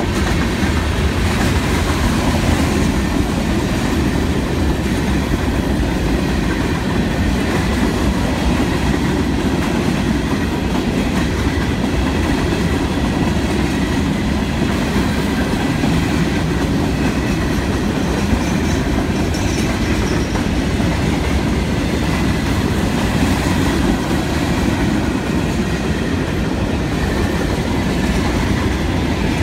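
Freight train cars rolling steadily past at trackside: covered hoppers, then empty open-top coal hoppers, their steel wheels running on the rails with a constant loud rumble.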